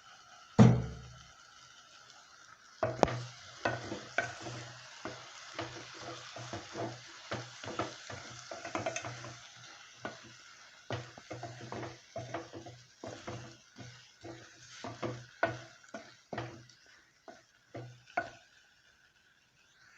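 A spoon stirring and scraping chicken pieces frying with spices and soy sauce in a pot, in irregular strokes, one or two a second, that start about three seconds in and stop shortly before the end. A single sharp knock comes about half a second in.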